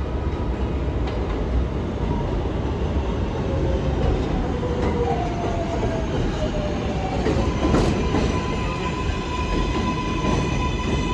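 R142-family New York subway train running on the rails, a steady rumble of wheels and track. A whine falls in pitch partway through; a knock comes near eight seconds, then a set of steady high electric motor whine tones.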